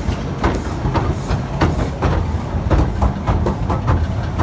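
Efteling park train running on its track: a steady rumble of wheels on rails, with the wheels clicking over rail joints, often in quick pairs, several times a second.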